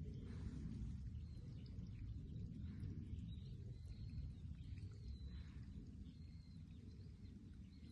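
Faint outdoor ambience: a steady low rumble with faint, high bird calls now and then.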